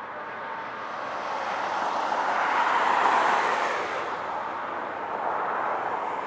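Freight train rolling past with a GE AC4400CW diesel locomotive: a steady rush of rail and engine noise that swells to its loudest about three seconds in and then eases off.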